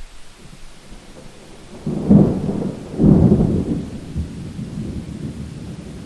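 Thunder rumbling over steady rain. It breaks about two seconds in, swells louder again a second later, then rolls away slowly.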